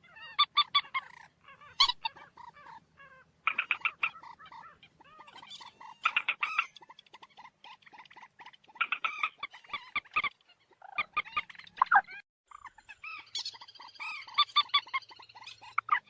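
Common moorhen calling: bouts of rapid, clucking notes in quick series, broken by short pauses.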